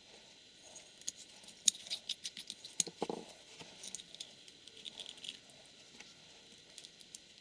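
Irregular small clicks and light rattles of small 3D-printed engine parts handled and fitted together by hand, with one duller knock about three seconds in.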